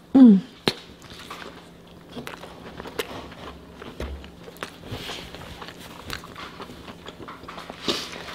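Close-miked biting and chewing of a double cheeseburger: small mouth clicks and crackles, after a short falling 'mm' hum right at the start.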